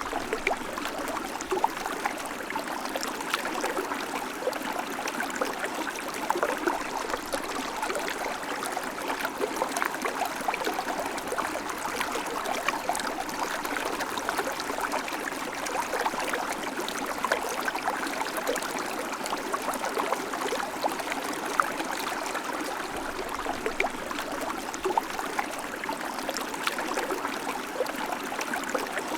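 River water flowing over stones, a steady babbling and splashing.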